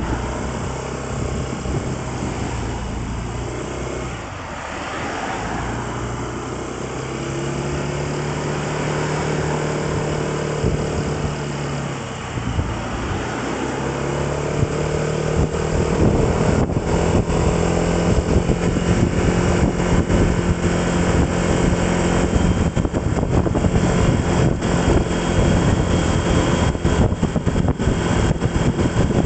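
A vehicle's engine heard onboard while on the move, with wind rushing over the microphone. The engine note falls and rises as it slows and picks up again, dipping twice in the first half. From about halfway it holds a higher steady note, with the wind louder and crackling.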